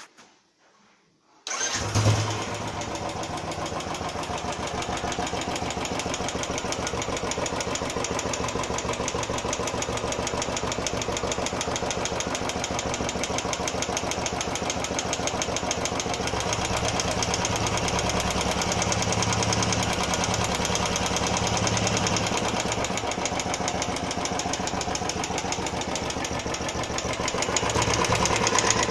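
Royal Enfield Classic 350's single-cylinder engine starting about a second and a half in, then idling steadily with a rapid 'tik tik' ticking from the valve train, which the owner takes for tappet noise that appeared after the first service.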